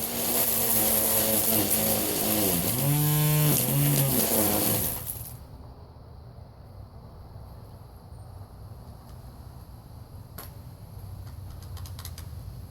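Battery-powered string trimmer running. Its whine dips in pitch and recovers about three seconds in, and the trimmer stops about five seconds in. A few faint clicks follow.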